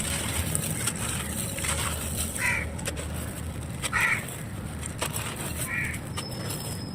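Dry, gritty clay being crushed and crumbled, a continuous crunching crackle of fine grains and dust falling. A bird calls four times in the background, about every second and a half.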